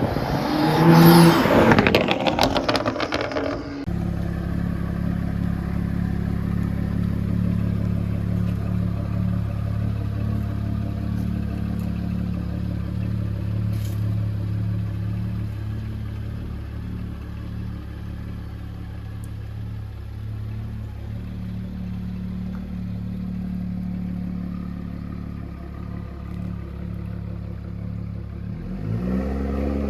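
BMW 335i's turbocharged N55 straight-six, with a catless downpipe and AWE exhaust, starting up: a loud flare in the first few seconds, then settling to a steady idle, with a rev beginning near the end.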